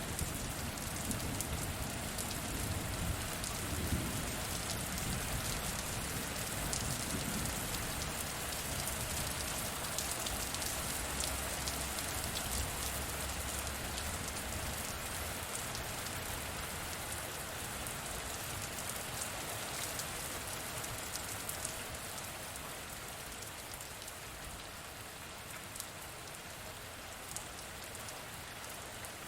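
Steady heavy rain, a dense hiss dotted with the ticks of individual drops. A low rumble of distant thunder rolls under it through the first half and fades away.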